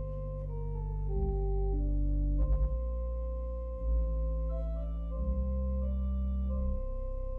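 Organ playing slow, held chords over a deep bass, the notes changing every second or so.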